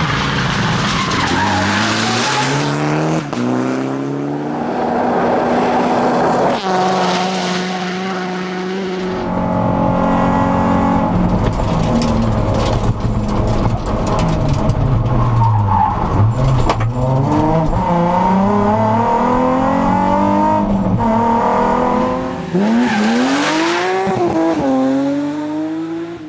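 Rally car engine driven flat out: the revs climb and step down again and again through gear changes, lift-offs and downshifts, over tyre and road noise.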